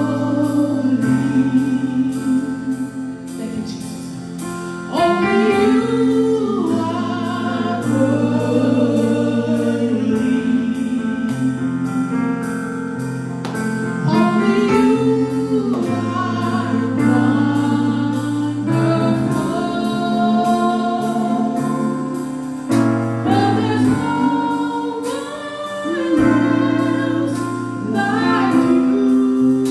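Gospel worship music: a group of singers sustaining long, sliding phrases over held chords and bass, with a steady ticking beat.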